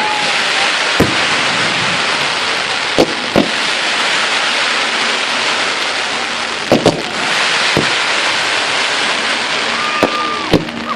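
Fireworks display: a dense, steady crackling like heavy rain, with sharp bangs every second or two and a short whistle near the end.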